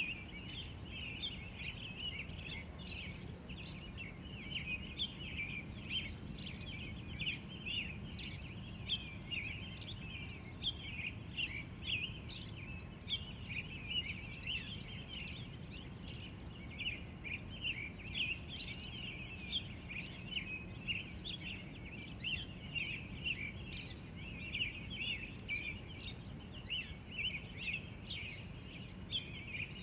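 Wild birds chirping in a continuous pre-dawn chorus, many short calls overlapping, over a steady high-pitched trill and a faint low rumble.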